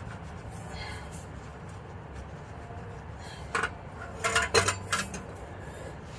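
Metal parts clinking and clanking as they are handled: a handful of sharp knocks bunched between about three and a half and five seconds in, over a steady low hum.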